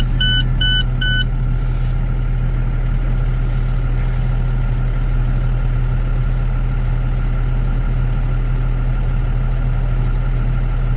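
Cummins ISB diesel engine of an International box truck idling steadily just after starting. A few short, evenly spaced electronic beeps sound in the first second or so.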